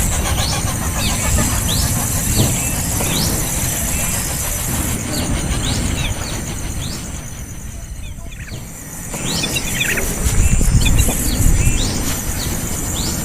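A small bird chick making repeated begging chirps: short falling cheeps about two a second, breaking into a quick flurry of calls about ten seconds in. A steady high hiss and a low rumble run underneath, the rumble loudest near the end.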